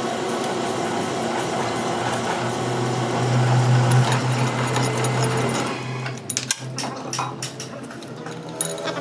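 Workshop machine running with a steady motor hum, louder for a couple of seconds near the middle, then giving way about six seconds in to short clicks and scraping.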